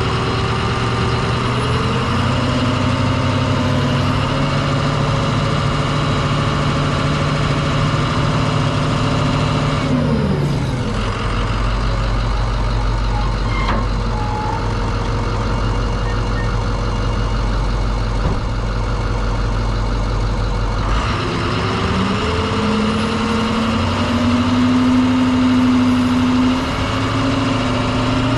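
International 4200's VT365 V8 diesel engine running. Its pitch rises a couple of seconds in, falls sharply about ten seconds in, holds low and steady, then climbs again near the end.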